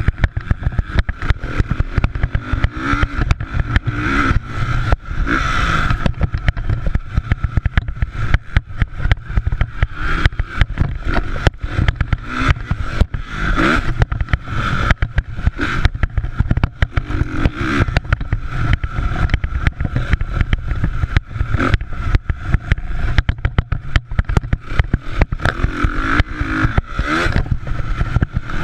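Motocross bikes racing, their engines revving up and down, under a constant low rumble and crackle.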